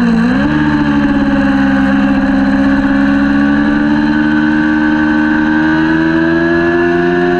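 Kawasaki Ninja 400 parallel-twin race engine under load. The revs dip sharply at the start as the throttle is briefly closed, then pick back up and climb slowly and steadily as the bike accelerates in one gear.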